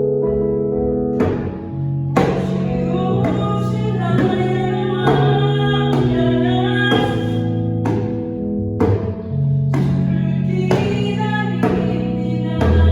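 A praise song: sustained keyboard chords with a singer's voice and djembe strikes.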